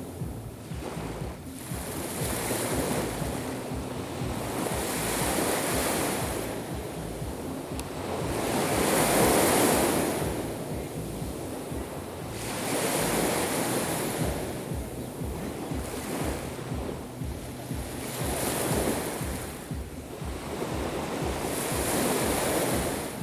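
Black Sea waves breaking on the shore one after another, each a swelling wash of surf every three to four seconds, the loudest about nine seconds in.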